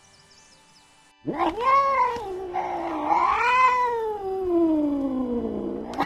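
A cat's long, drawn-out yowl. About a second in, one wavering call starts that rises and falls in pitch, then slides steadily lower and stops after nearly five seconds.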